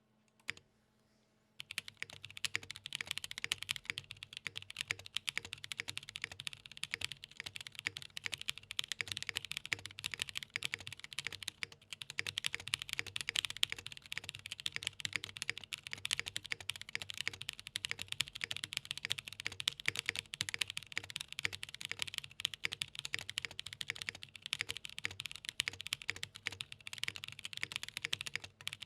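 Continuous fast typing on a Gok Venn mechanical keyboard with lubed and filmed Anubis tactile switches mounted on a leafspring polycarbonate plate. The typing starts about a second and a half in, with a short lull about halfway through.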